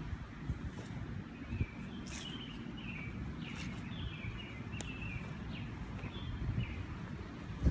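Small birds chirping in short, repeated calls, over a low steady rumble.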